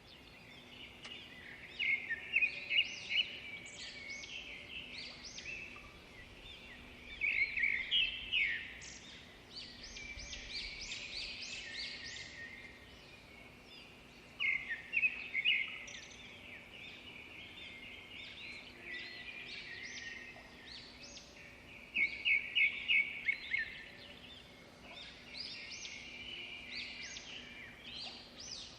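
Wild birds singing and chirping, with louder bursts of quick repeated notes every several seconds and a faint steady low hum beneath.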